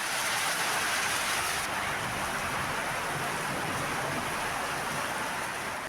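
Heavy rain falling steadily, a dense even hiss of downpour from a storm.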